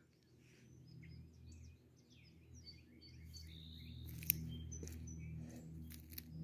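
Faint songbirds chirping in the trees, many short whistled notes overlapping, over a low steady hum. A sharp click about four seconds in.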